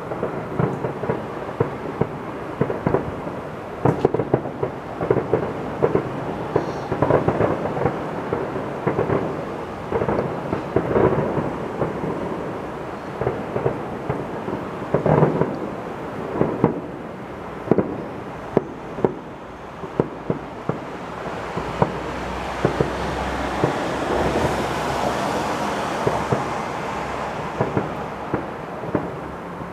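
Fireworks display heard from a distance: aerial shells bursting in a quick run of bangs over a continuous rumble. About two-thirds of the way through, the separate bangs give way for several seconds to a denser, steadier rumble before single bangs return.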